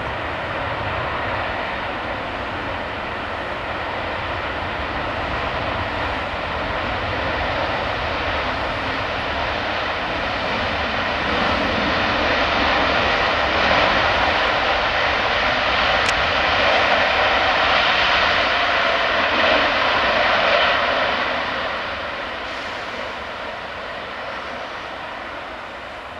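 Airbus A380's four jet engines on landing, a steady jet roar that swells to its loudest about two-thirds of the way through, then fades as the airliner passes.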